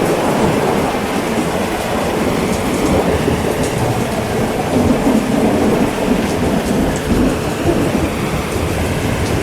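Heavy, steady rain with a low rumble of thunder that swells about halfway through.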